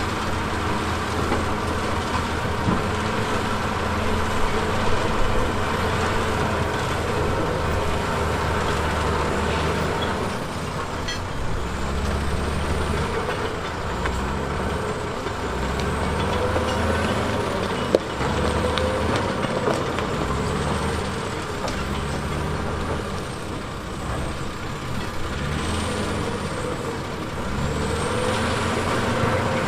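Diesel engine of heavy earthmoving machinery running under load, its pitch rising and falling again and again in the second half, with a single sharp knock about eighteen seconds in.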